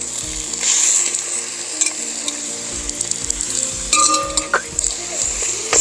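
Marinated chicken pieces going into hot ghee and masala in a metal kadai, sizzling and frying, with the sizzle swelling about a second in. A short ringing metal clink comes about four seconds in.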